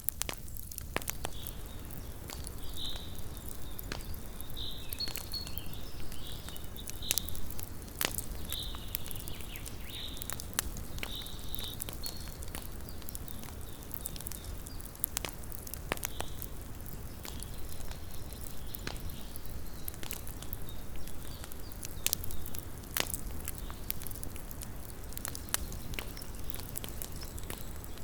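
Small wood campfire crackling, with irregular sharp pops over a low steady rumble. A run of short high chirps sounds through the first half.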